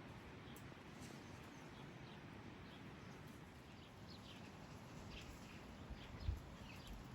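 Faint outdoor ambience: small birds chirping over a steady low hiss, the chirps coming more often in the second half. A dull low thump comes about six seconds in.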